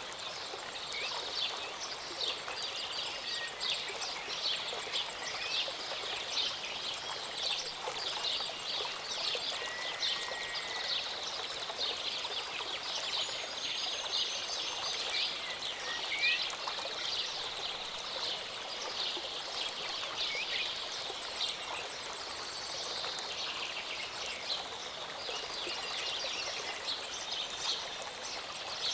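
Small mountain stream or waterfall running steadily, trickling and splashing, with a few short bird chirps over it.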